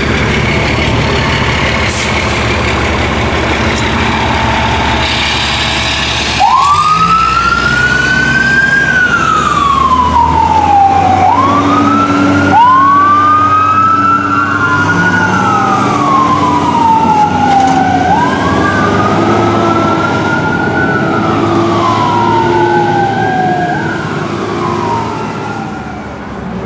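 Emergency vehicles leaving on a run: a heavy truck engine runs, then about six seconds in a siren starts wailing, rising quickly and falling slowly in cycles of about five seconds. About halfway through a second siren joins, and the two wails overlap out of step.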